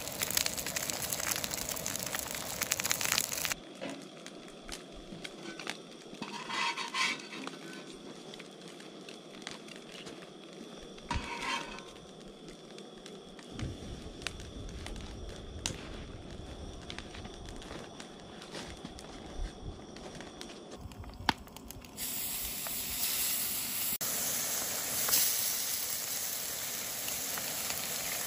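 Eggs sizzling in a hot frying pan on a camp stove; after a few seconds this gives way to a quieter stretch of a campfire crackling, with small scattered clicks. For the last several seconds a loud, steady frying sizzle returns as chana masala is tipped into the hot pan.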